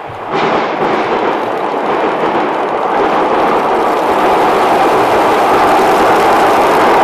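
DE10 diesel-hydraulic locomotive and four old-type passenger coaches crossing a steel girder bridge: a loud rumble of the train on the bridge rises suddenly about a third of a second in, then grows slowly louder as the train comes closer.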